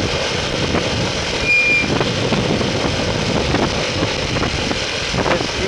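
Steady wind and road noise from riding a motorcycle in traffic, with one short high beep about a second and a half in.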